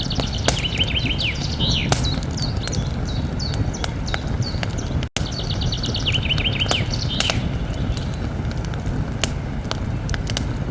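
Campfire crackling, with frequent sharp pops over a steady low rumble of burning. A songbird sings a short phrase of quick falling notes twice, near the start and again about six seconds in, and the sound cuts out for an instant about five seconds in.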